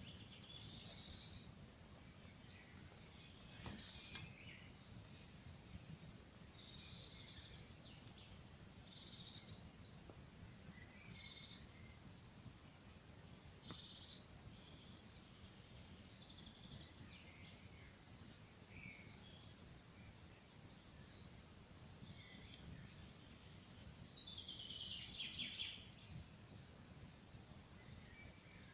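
Forest birds singing faintly: one bird repeats a short high chirp about once a second while others sing brief trilling phrases, over a steady low rumble.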